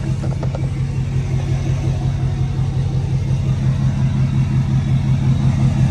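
A truck engine idling steadily with an even low rumble, with a few faint knocks in the first second.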